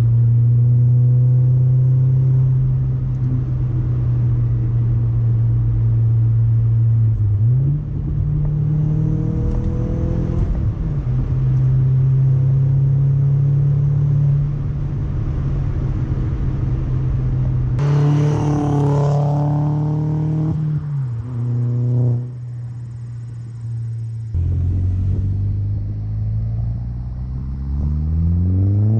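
Audi A4 B6's turbocharged 1.8-litre four-cylinder through a resonator-delete ECS catback exhaust, running at a steady pitch, with brief rev rises about a quarter and two-thirds of the way in, then climbing steadily in pitch under acceleration near the end.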